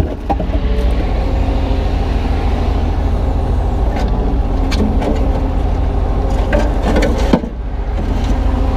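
Kubota U35-3 mini excavator's diesel engine running steadily as the machine works its hydraulics. A few sharp knocks of broken concrete chunks being shifted and dropped come in the second half.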